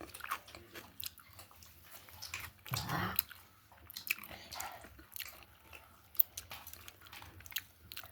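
A person chewing and biting food close to the microphone, with scattered short crunches and clicks; one fuller mouth sound about three seconds in and a sharp click a little after six seconds.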